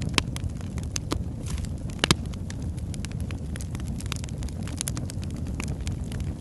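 Log fire in a fireplace crackling: irregular sharp pops and snaps over a low, steady rumble of the flames, with the loudest pop about two seconds in.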